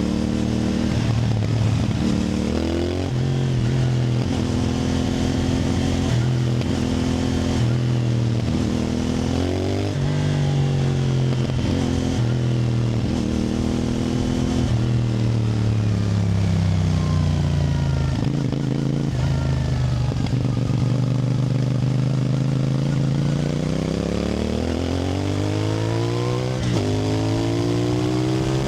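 CFMoto 450NK's 449 cc parallel-twin engine under way, revs climbing and dropping back in steps as it works through the gears. Near the middle the revs sag in a long slowdown, then build again toward the end.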